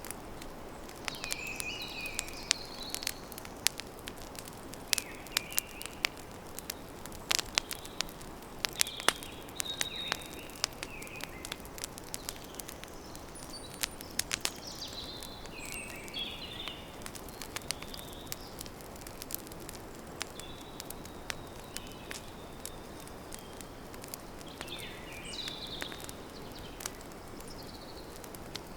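Campfire crackling and popping with frequent sharp snaps over a steady hiss, while small birds chirp in short phrases at intervals.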